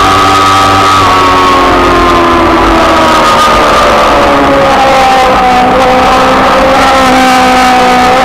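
Racing sidecar's 600cc four-stroke engine running at high revs, very loud from an onboard camera, with wind rumble on the microphone. Its pitch sags slowly over the first few seconds and rises again near the end.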